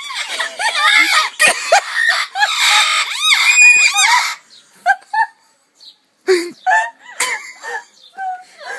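Talking birds screeching and squawking loudly, several harsh calls overlapping for the first few seconds. After that come sparser, shorter squawks and voice-like calls with brief gaps.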